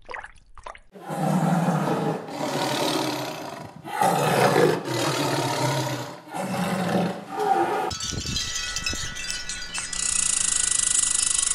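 A large animal's rough, low calls, about five of them, each a second or two long. From about eight seconds in they give way to a steady hiss with a thin high tone.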